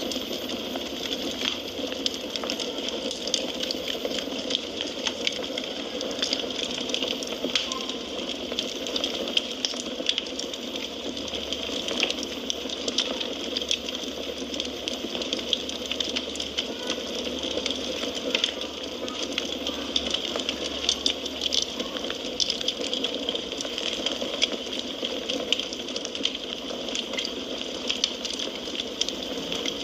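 Wood fire burning in a fireplace, crackling steadily: a continuous hiss with many small sharp pops and snaps scattered throughout.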